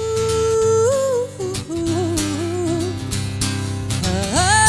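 A woman's voice singing wordless held notes and a short wavering run over strummed acoustic guitar; near the end her voice slides up into another long held note.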